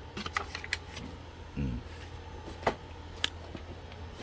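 Clicks and taps from hands working the HP OfficeJet Pro 8710 printer while setting up a copy: a quick run of clicks in the first second, then two single clicks, over a low steady hum. A short low murmur comes about one and a half seconds in.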